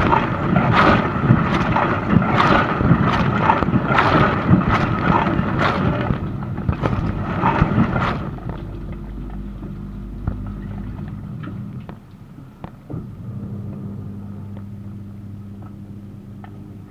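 Dishwasher running a wash cycle: water from the spray arms sloshing and splashing against the racks and door in uneven surges. About halfway through the spraying stops, leaving a quieter steady motor hum with a few faint drips and ticks.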